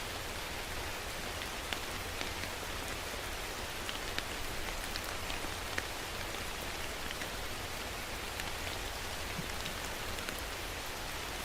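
Steady rain falling on a surface, with scattered distinct drops ticking through the steady hiss.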